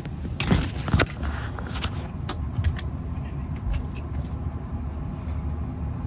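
Steady low rumble of a running vehicle, with two loud knocks about half a second and a second in and scattered light clicks.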